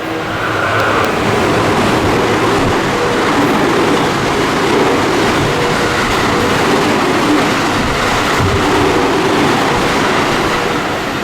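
Train passing at speed without stopping: a steady, loud rush of wheel and running noise.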